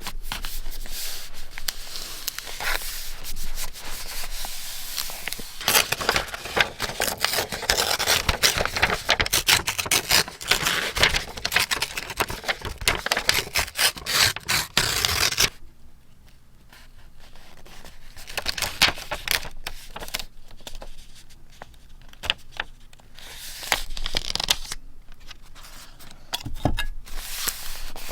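Paper being handled close up: rubbing, rustling and crackling for about the first half, then softer handling with scattered small clicks and brief louder spells.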